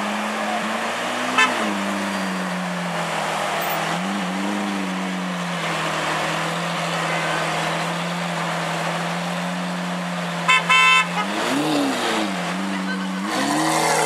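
Lamborghini Aventador V12 with Capristo exhaust idling, with several light throttle blips that briefly raise the pitch and a bigger rev near the end. A car horn toots briefly about a second and a half in, and twice in quick succession about ten and a half seconds in.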